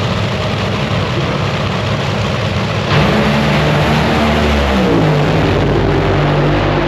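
Nitro drag racing engine at full throttle, running as a dense, loud noise that gets louder about three seconds in, with its pitch dropping about a second and a half later.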